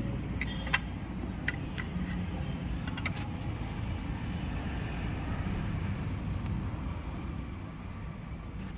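Steady low rumble of background vehicle noise, with a few short metallic clinks in the first three seconds, like tools or parts being handled on the engine.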